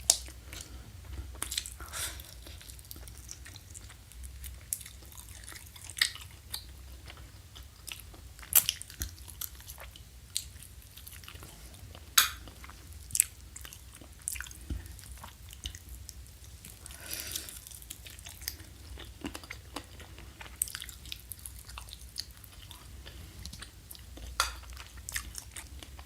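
Close-miked chewing of crispy fried quail, with sharp crunches at irregular intervals as its hard bones are bitten through, over a faint low hum.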